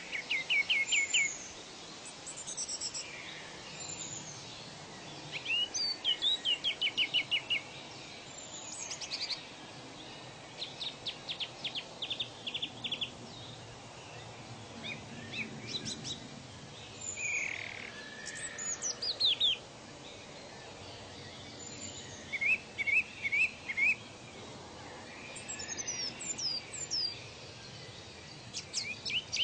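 Several birds singing and calling, with quick runs of repeated high chirps and downward-sliding whistles coming every second or two, over a soft steady background hiss.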